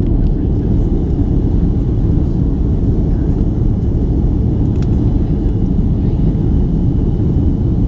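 Steady, loud roar of an Airbus A330's jet engines and rushing air heard from inside the passenger cabin during takeoff, with a faint steady high whine above it.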